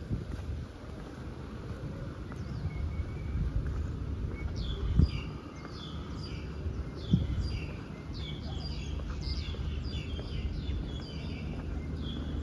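A songbird singing a long run of quick, high chirps that each fall in pitch, starting about four and a half seconds in, over a steady low rumble. Two dull thumps stand out, about five and seven seconds in.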